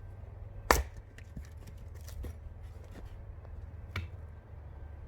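Sharp wooden knocks of firewood pieces being handled: one loud knock under a second in, a second one near four seconds, and lighter clatter between, over a low steady rumble.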